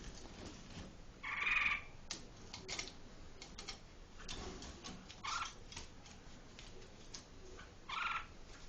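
A bird giving three short calls, each about half a second long, spaced several seconds apart, with faint clicks and taps in between.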